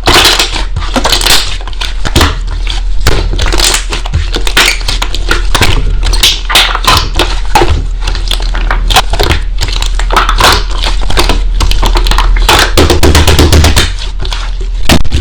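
Slime being squeezed and pressed by hand, making a dense, steady run of crackling, popping clicks.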